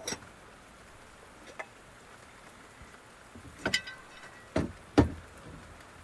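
A handful of sharp knocks and clicks of things being handled, the loudest about five seconds in, over a faint steady patter of rain on the car.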